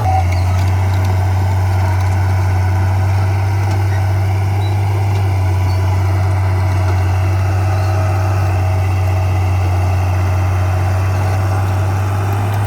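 Heavy earthmoving machine's diesel engine running steadily at a constant speed, a deep even drone.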